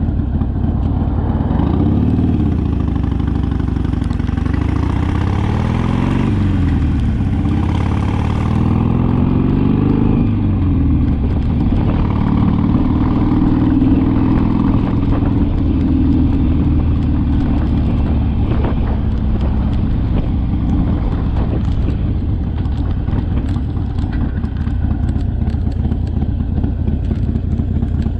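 Harley-Davidson Sportster's V-twin engine under way. It rises in pitch and drops back about three times in the first ten seconds, then runs at a steady speed.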